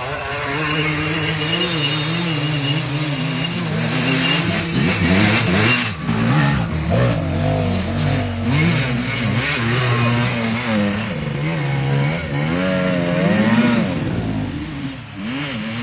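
Motocross motorcycle engines revving, their pitch rising and falling again and again as the bikes accelerate and back off, with more than one engine heard at once.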